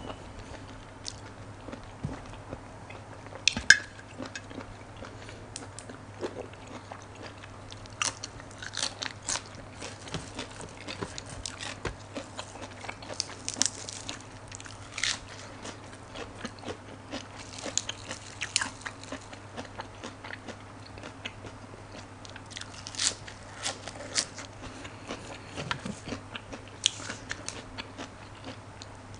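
Close-miked mukbang eating: wet chewing and crisp crunching of blood cockle meat and fresh raw vegetables such as lettuce leaves and long beans. Short sharp bites and mouth clicks come irregularly throughout over a faint steady low hum.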